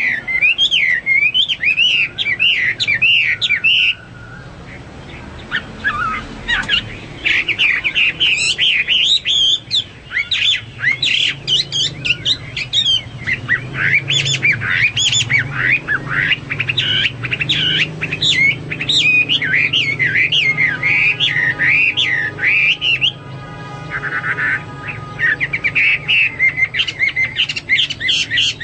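Chinese hwamei (melodious laughingthrush) singing a loud, fast, varied song of whistled notes that bend up and down in pitch, with a short lull about four seconds in.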